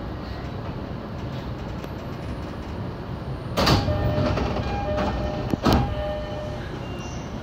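Train running on rails with a steady rumble, broken by two sharp metallic clanks about two seconds apart, each leaving a brief ringing tone.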